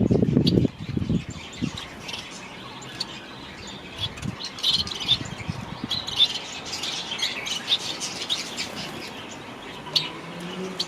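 Small aviary birds chirping and twittering, many short high calls overlapping, with a brief low rustle in the first second.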